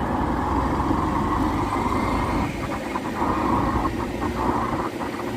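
Motorcycle riding along a highway: a steady, continuous mix of engine, wind and road noise.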